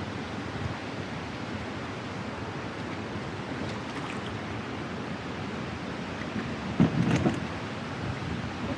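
Steady rushing noise of wind and water around a canoe on the river, with a short, louder burst about seven seconds in.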